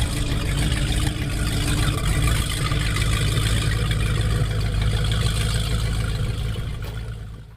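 Pickup truck engine running steadily with a low rumble, fading out near the end.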